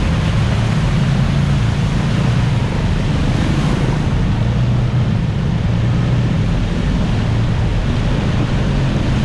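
Jet ski engine running steadily under way, a continuous low drone mixed with rushing wind and water noise.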